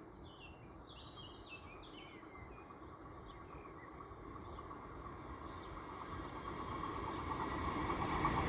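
SBB double-deck train approaching on the rails, its rumble growing steadily louder. Birds chirp over it during the first half.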